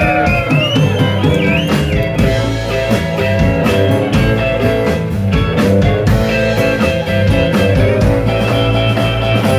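Live blues band playing an instrumental break between sung verses, led by electric guitar, with bending notes in the first couple of seconds over a steady bass and drums.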